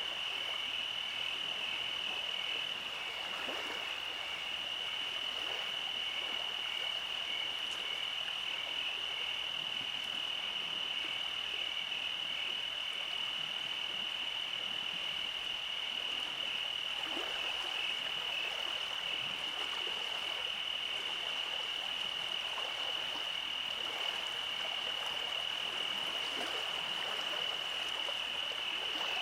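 Night chorus of calling frogs: a steady high-pitched trill with a fainter, evenly repeating pulse beneath it.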